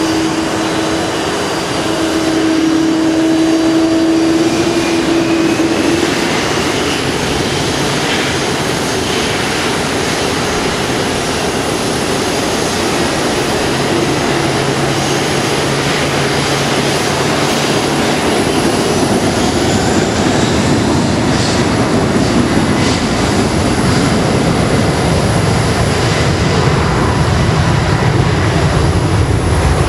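Boeing 777-300 jet engines and airflow heard inside the cabin: a steady, loud rushing noise, with a steady hum that stops about six seconds in and a lower hum appearing later.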